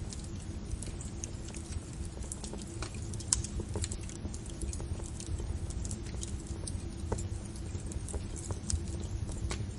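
Wood fire crackling and popping, with irregular sharp snaps over a steady low rumble of flames.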